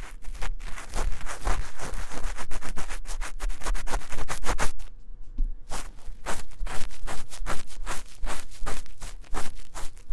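An ear-cleaning tool scratching fast and hard inside the silicone ear of a 3Dio binaural microphone, in rapid close-up scraping strokes, with a brief pause about five seconds in.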